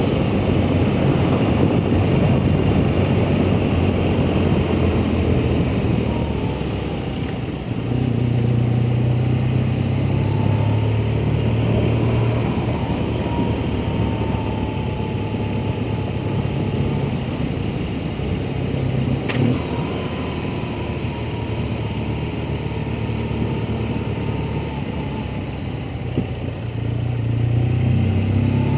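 BMW R1200GS flat-twin boxer engine running under way, its note easing off and picking up again a couple of times.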